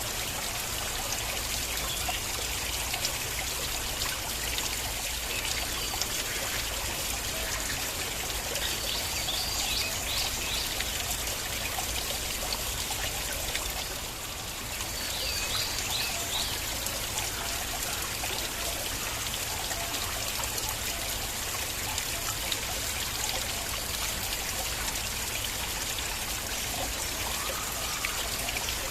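Stream water flowing and trickling steadily over rocks. A few short high chirps come twice near the middle.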